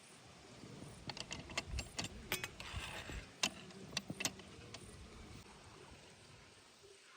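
Light clinks and knocks of cooking utensils being handled, a quick irregular run of about a dozen sharp strikes between about one and five seconds in.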